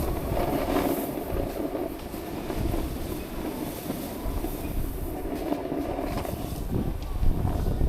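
Snowboard sliding and scraping over snow: a steady, rough rumble that swells louder near the end.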